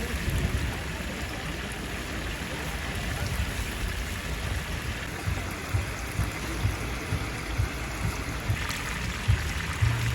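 Whole chicken deep-frying in a cast-iron cauldron of hot oil, a steady sizzle, with scattered low bumps.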